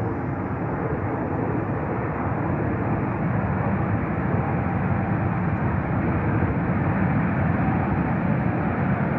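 Jet airliner engines at takeoff power, a steady rushing noise that grows slightly louder about three seconds in.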